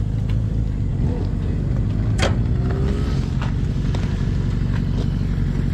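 Motorcycle engine idling steadily, a low even rumble, with a few sharp clicks over it.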